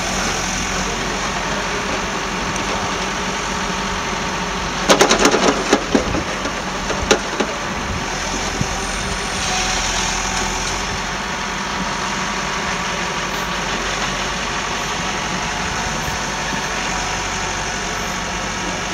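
Passenger train coaches rolling away over station track and points: a steady rumble, with a quick run of clattering wheel clicks about five seconds in and one more click about a second later.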